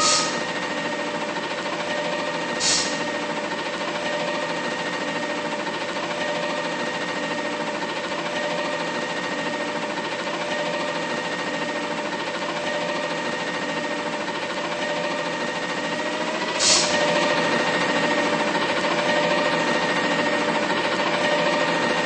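Diesel engine of a Mack LR garbage truck running steadily with an even drone. A sharp knock comes about three seconds in and another near the end, and after the second one it runs a little louder.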